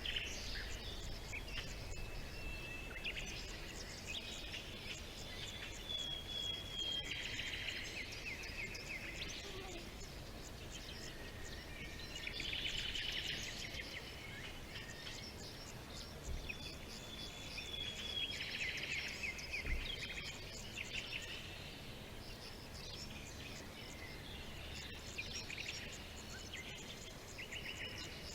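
Songbirds singing: clear whistled notes alternating with rapid trilled phrases, repeating every few seconds over a faint steady background noise.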